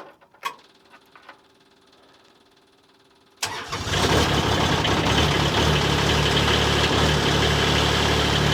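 A few faint clicks, then about three and a half seconds in the Hytop HT20 Pro mini excavator's diesel engine cranks and fires almost at once, settling into a steady idle. It is a cold start on glow plugs.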